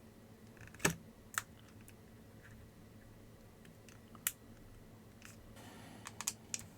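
Small, sharp clicks and taps of tools on the plastic parts of a Nintendo DSi being taken apart: a few single clicks, then a quick cluster of them near the end.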